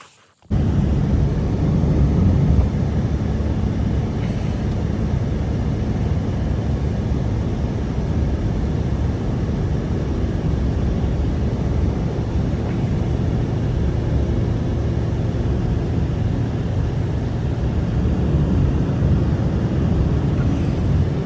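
Strong blizzard wind, a loud steady low rumbling rush that starts suddenly about half a second in.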